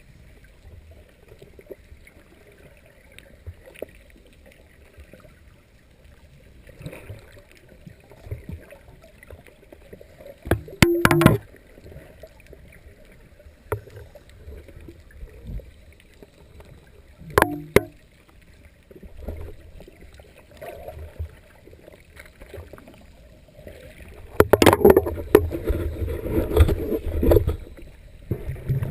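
Scuba diver's exhaled bubbles gurgling out of the regulator, recorded underwater: loud bubbling bursts about 11 and 17 seconds in and a longer, louder run near the end, with a low steady underwater hush between breaths.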